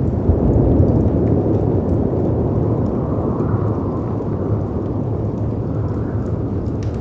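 Layered storm ambience of wind and sea surf: a steady, deep rushing noise that swells about a second in. A few faint crackles and pops from a fireplace sound over it.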